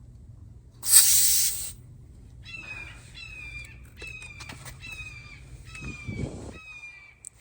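A brief, loud hiss of air about a second in, then a bird calling over and over in short falling notes, about two a second, with a dull low thump a little after the sixth second.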